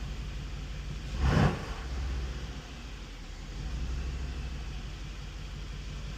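2018 Mercedes-AMG C63 S's twin-turbo V8 idling steadily, with one short blip of the throttle about a second in.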